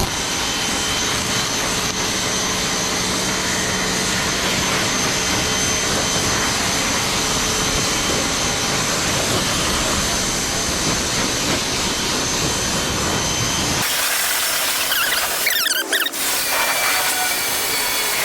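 Pressure washer running with a steady motor-and-pump whine over a water spray, rinsing the dirt off a car before a foam wash. About fourteen seconds in, the low hum drops out and a hissing spray carries on.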